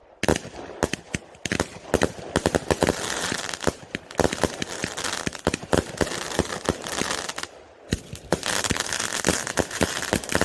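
Fireworks going off: a rapid, irregular run of sharp bangs and pops over dense crackling, with a brief lull about eight seconds in.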